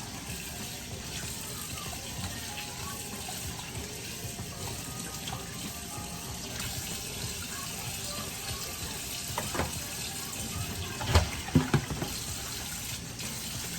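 Water running steadily from a tap, with a few sharp knocks in the last few seconds, the loudest about eleven seconds in.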